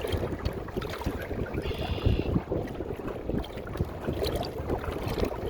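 Gusty wind buffeting the microphone on a kayak running at speed into a strong headwind, a dense uneven rumble with no steady tone.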